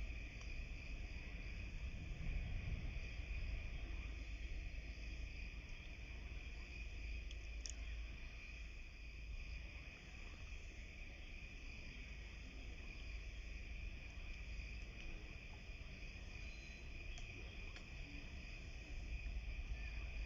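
A steady chorus of insects, crickets or similar, shrilling without a break, over a low rumble.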